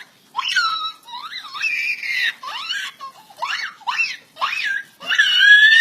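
Baby laughing in a string of short, high-pitched squealing bursts, with one longer held squeal near the end.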